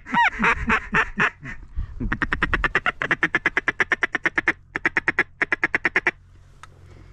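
Mallard-style quacking: a few loud, drawn-out quacks falling in pitch, then a fast, even run of short quacks, about seven or eight a second, that stops about six seconds in.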